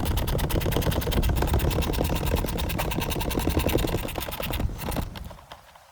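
A screw being backed out with a power driver: a rapid, even clatter of about ten clicks a second that stops about five seconds in, once the screw is out.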